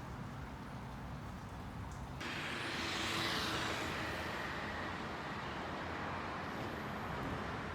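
Outdoor hiss and rumble of traffic noise. It steps up abruptly about two seconds in, swells for a second, then eases a little and holds steady.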